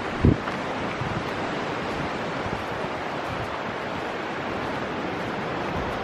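Steady rush of the fast-flowing Niagara River, with a short thump of wind on the microphone about a third of a second in.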